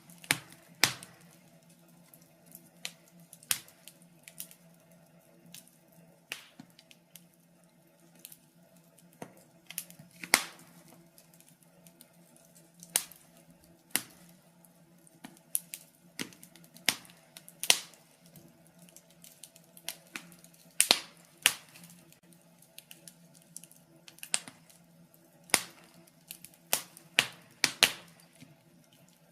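Wood fire crackling in a fireplace: irregular sharp pops and snaps, sometimes a quick cluster, with short gaps between, over a faint steady low hum.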